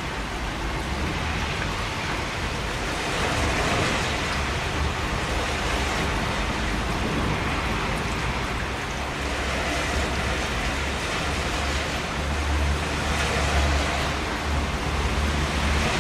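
Steady heavy rain, an even hiss with a low rumble underneath that grows stronger in the second half.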